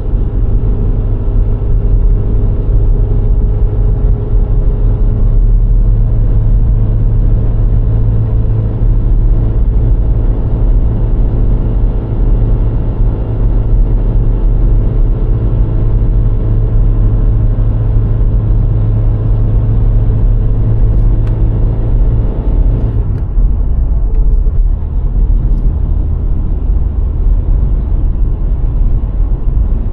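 A VW Golf IV 1.6's four-cylinder petrol engine is running while under way, with a steady tyre and road rumble. About 23 seconds in, the engine hum drops away and only the road rumble is left, as when coming off the throttle.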